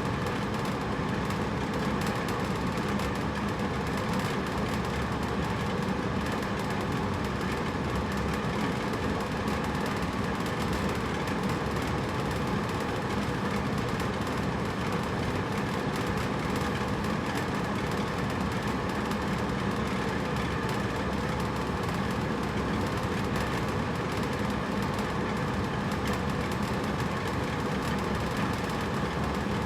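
Hotel room air conditioner running steadily: an even whooshing rush of air over a low hum, with no change from start to end.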